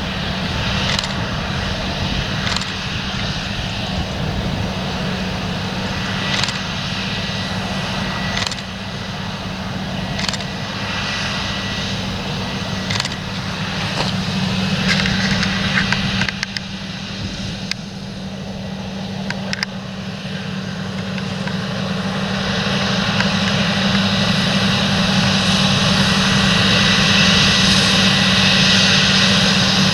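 Large John Deere tractor's engine running steadily at working revs, a constant drone that grows louder over the last third.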